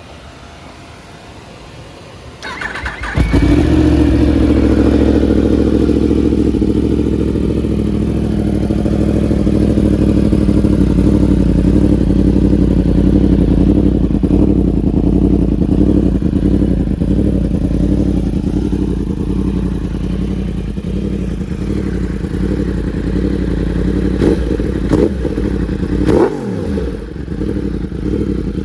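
2019 Yamaha R1 crossplane inline-four cranked on the starter and catching about three seconds in, then idling steadily. Near the end the throttle is blipped briefly a couple of times.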